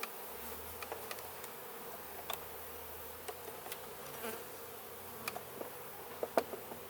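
Honeybees buzzing steadily around an opened hive, with scattered light clicks and knocks from frames and hive boxes being handled.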